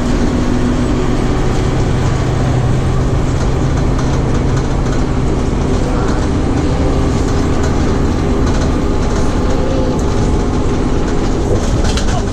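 Fire truck engine and road noise heard from on board while it drives, a steady drone with a low hum, and a few rattles near the end.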